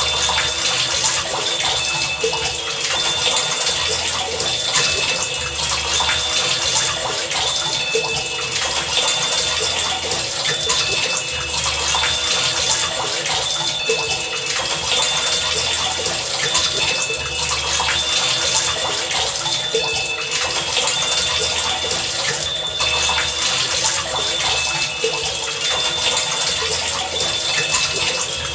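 Heavy rain falling in a steady hiss. Over it, a repeating pattern of short high tones and low thumps comes back about every two seconds.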